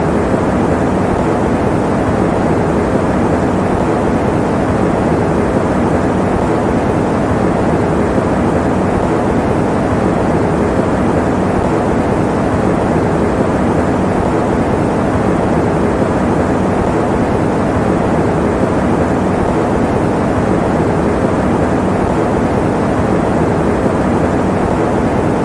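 Electric fan running steadily, an even, unchanging rush of noise that is mostly low and mid in pitch with little hiss on top.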